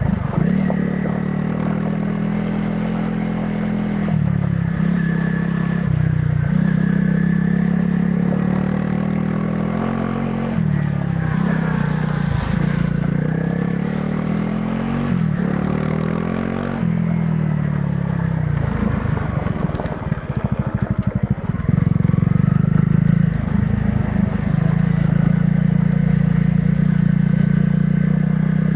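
Honda CRF300 Rally's single-cylinder four-stroke engine through its stock exhaust, riding off-road with the pitch rising and falling as the throttle opens and closes through the gears. About twenty seconds in, the engine note turns to a rapid, choppy rattle for a couple of seconds before steady running resumes.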